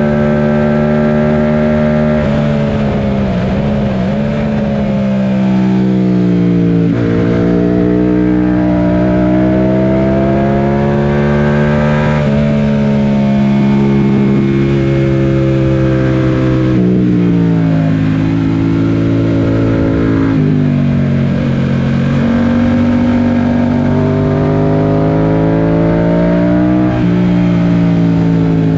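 Yamaha FZ-07's 689 cc parallel-twin engine under hard riding on a race track, its pitch climbing and falling repeatedly, with several sudden drops as it shifts or brakes, over a steady rush of noise.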